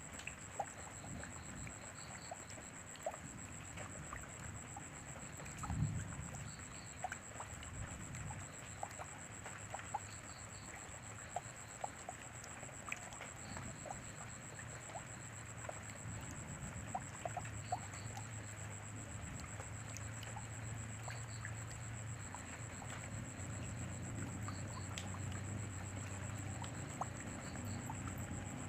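Rain falling, heard as a steady hiss with many separate drops tapping on nearby surfaces, and a dull thump about six seconds in. A low rumble builds through the second half, and a thin high-pitched tone holds steady above it all.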